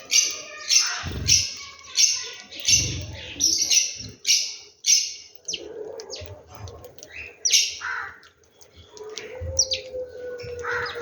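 Small birds chirping in a quick series of short calls, busiest in the first half and sparser later.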